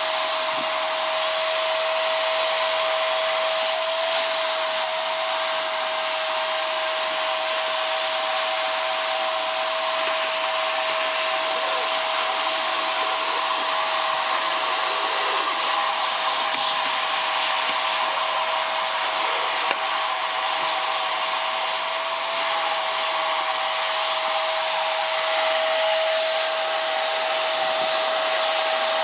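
Hoover PowerDrive Pet upright vacuum cleaner running steadily, its motor holding a constant high whine over a wide rush of airflow as it picks up husky fur from carpet.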